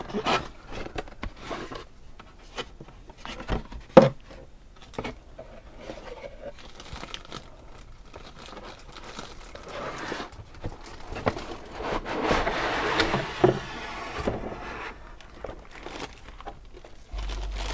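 Packaging being handled and opened: crinkling plastic and cardboard with scattered clicks and scrapes, a sharp knock about four seconds in, and a longer stretch of crinkling and tearing later on.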